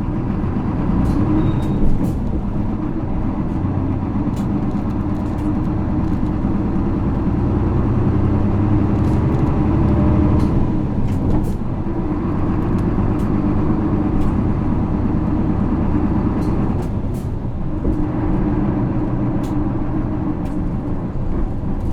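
Onboard sound of an Isuzu Erga city bus (PKG-LV234L2) under way: its 6HK1 six-cylinder diesel running steadily, the engine note dropping about halfway through and again later. Short rattling clicks from the bus interior come and go throughout.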